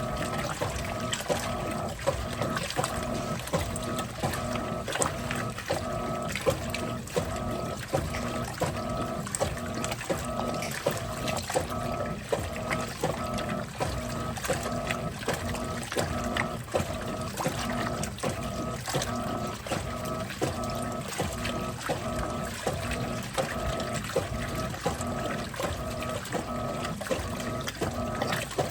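Electrolux top-loading washing machine agitating in its first rinse. The motor hums and reverses the agitator in a steady back-and-forth rhythm, with water sloshing and a light click at each stroke.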